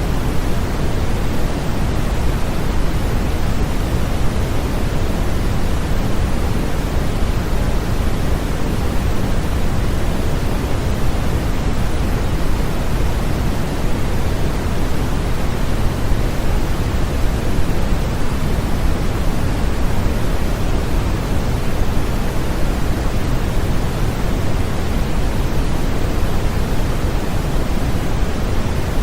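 Continuous synthetic sleep noise for babies: a steady, even hiss with no breaks, weighted toward the low end so it sounds deep and soft rather than sharp, closer to pink noise than true white noise.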